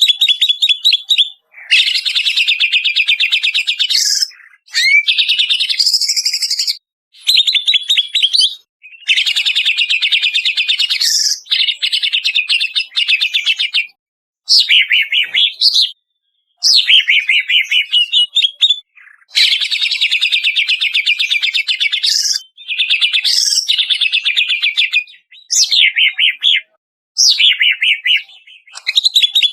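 Greater green leafbird (cucak ijo) singing loudly in a long series of rapid, chattering phrases of quick repeated notes, each a second or three long, with short pauses between them. It is an edited training recording used to coax caged birds into song.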